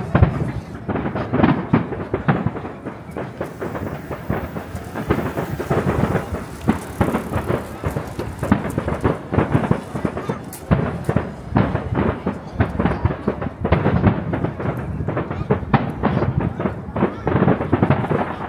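Fireworks display: a dense, continuous barrage of shell bursts and crackle, several bangs a second with a deep rumble under them.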